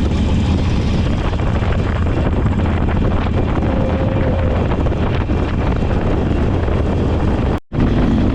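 Motorcycle running at road speed, its low engine drone mixed with heavy wind buffeting on the microphone. The sound cuts out for a split second near the end, then carries on.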